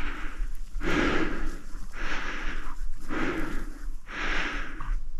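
A person breathing hard and evenly, about one breath a second.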